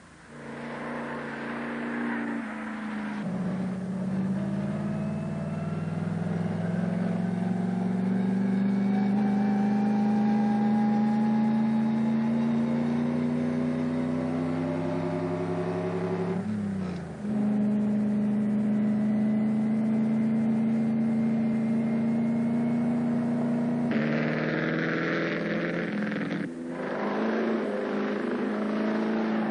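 Sports car engine running under load, its pitch climbing slowly as it accelerates, with a short dip in level and pitch about seventeen seconds in and another near the end.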